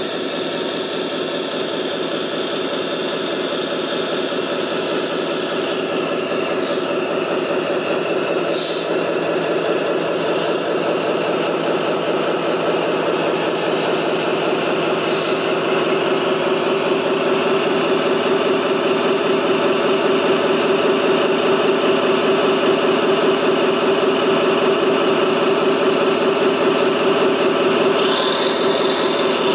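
Radio-controlled model construction machine running with a steady engine-like hum that slowly gets louder, with a couple of short high squeaks partway through.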